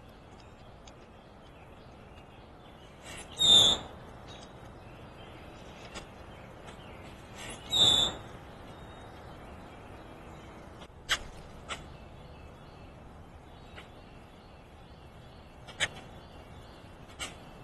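Backyard birds calling: two loud, short calls about four seconds apart, then several sharp, brief chirps, over a steady outdoor background hiss.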